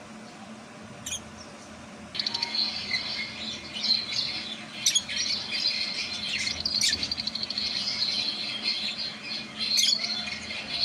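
Fischer's lovebirds chattering in a dense, continuous twitter that starts about two seconds in, broken by a few sharp, shrill calls.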